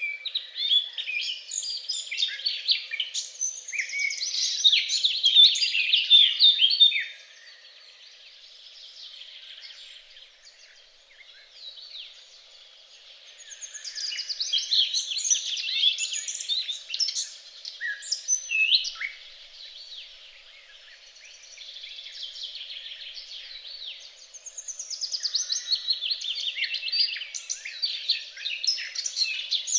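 Songbird singing in three long phrases of rapid, high twittering notes, each lasting several seconds, with quieter calls in the gaps between.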